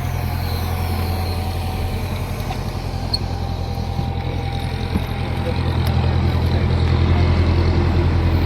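Aircraft towing tractor's engine running steadily under tow, a low hum that grows a little louder about six seconds in.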